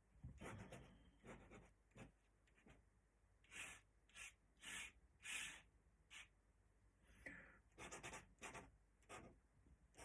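Faint strokes of an ink drawing tool scratching across paper: a dozen or so short strokes, some in quick runs near the end.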